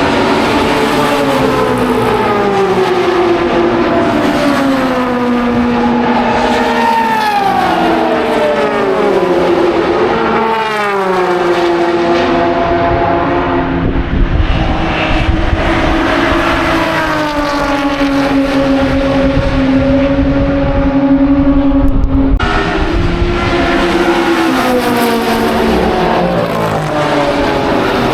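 Historic racing car engines running hard, their pitch climbing and dropping again and again as they accelerate, shift and slow. The sound changes abruptly about three quarters of the way through.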